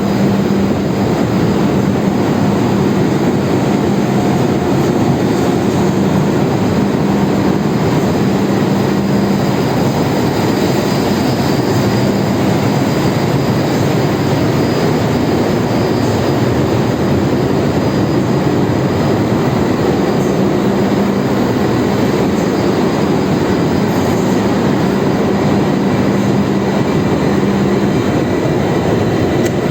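Tanker engine-room machinery running: a loud, steady mechanical din with a constant low hum underneath.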